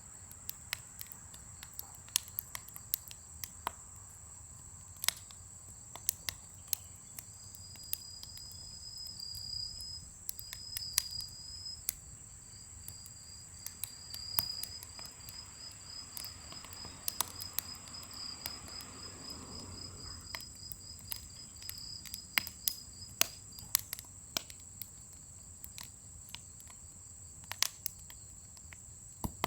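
Firewood burning in a large steel fire pit, crackling with scattered sharp pops, over a steady high insect drone. A rapid high chirping trill runs through the middle, while a low rushing sound swells and fades.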